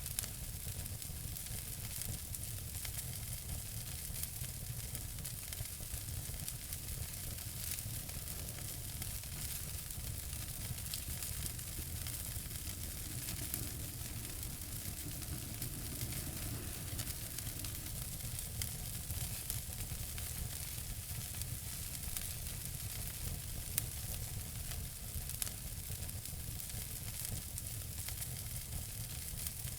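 Wood fire crackling in a fireplace: a steady hiss with a dense run of small pops and ticks, and a few sharper pops near the end.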